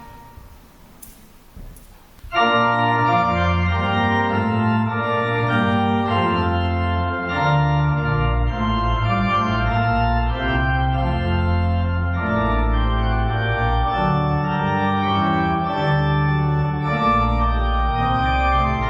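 Organ music: full sustained chords over a moving bass line, coming in suddenly about two seconds in after a short quiet stretch of faint room noise.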